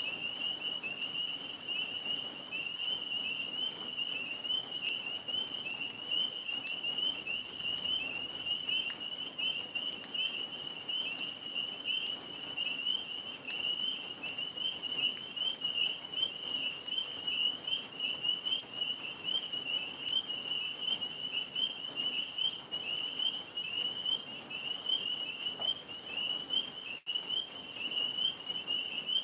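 A dense chorus of tree frogs calling all at once, one steady high-pitched wavering trill with no gaps.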